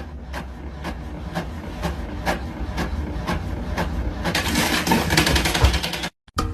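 A small machine running: steady rhythmic clicking, about three a second, over a low rumble, growing busier and louder after about four seconds and cutting off suddenly near the end.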